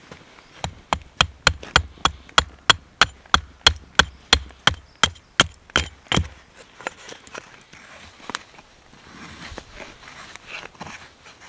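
A rapid, even run of about twenty sharp knocks, roughly three a second, which stops about six seconds in; one more knock follows a couple of seconds later among faint scattered rustling.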